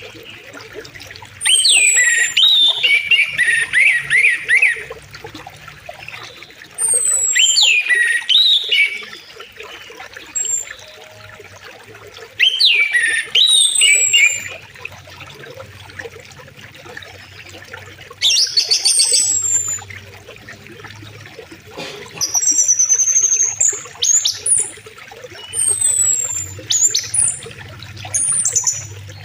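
Songbirds singing short whistled phrases every few seconds, one of them a fast high trill, over a river flowing steadily. The bird song is the loudest sound.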